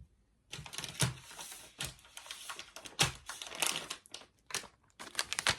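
Plastic candy packaging crinkling and rustling as it is handled, in irregular bursts with sharp crackles.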